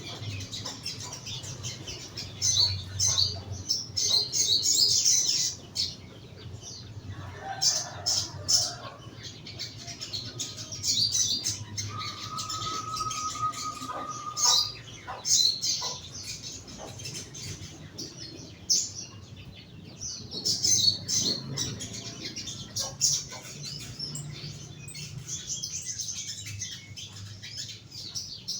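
Young crimson sunbird (sogon) in a cage giving quick, high-pitched chirps and twitters in repeated bursts.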